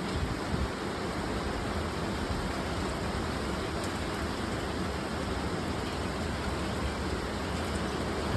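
Steady rain falling in a storm, an even hiss with no break.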